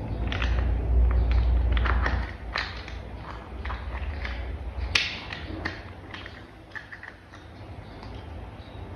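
Hands handling and fitting hard plastic toy vehicle parts: a run of irregular clicks and taps, with a sharper click about five seconds in. A low rumble underlies the first two seconds, then fades.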